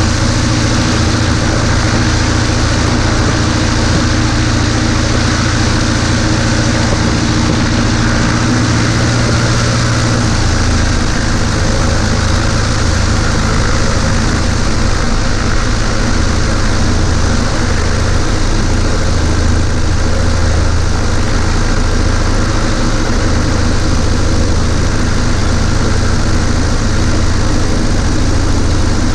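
Cessna 140A's single piston engine and propeller running steadily, a loud, even drone whose low note shifts slightly about ten seconds in.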